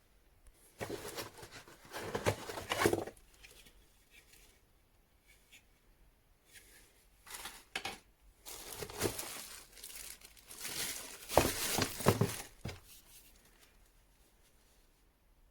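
Crinkling and rustling handling noise in several irregular bouts, with quiet gaps between them.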